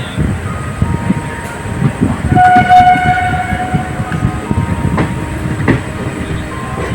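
Indian Railways passenger train running on the line, with rumble and wheel clicks over the rail joints; a train horn sounds briefly about two and a half seconds in.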